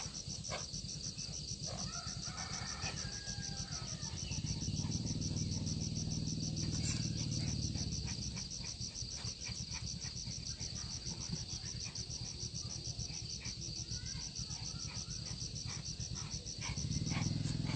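Insects trilling: a steady, rapid, high-pitched pulsing chorus with scattered light clicks. A low hum swells about five seconds in, fades out by about eight seconds and returns near the end.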